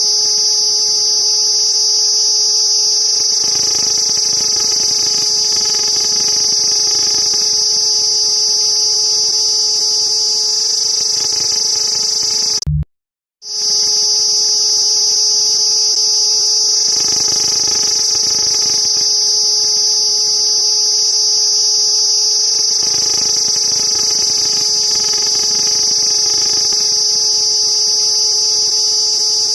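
Cicadas buzzing: a loud, steady high-pitched drone with a faint low hum underneath. It cuts out for under a second near the middle, then comes straight back.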